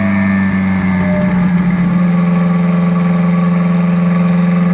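Lancia Delta HF Turbo engine running on a chassis dynamometer, loud; its note shifts during the first couple of seconds, then holds a steady hum.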